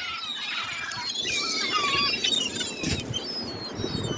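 A flock of seagulls calling over one another, many short overlapping cries, as they compete for thrown food.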